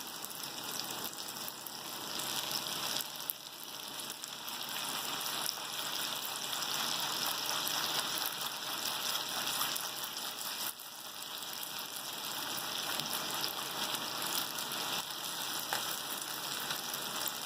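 Achappam (rose cookie) batter deep-frying in hot oil, sizzling steadily, with brief drops in level about three seconds in and again near eleven seconds.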